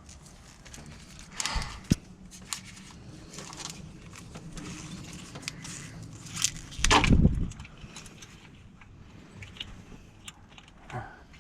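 Hands handling a wiring harness and tools: scattered rustling, clicks and metallic jingles, with a sharp click about two seconds in and a louder knock about seven seconds in.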